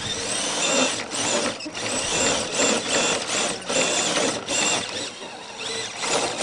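Electric RC 4x4 truck's motor and geared drivetrain whining in repeated short throttle bursts, the pitch rising and falling with each burst.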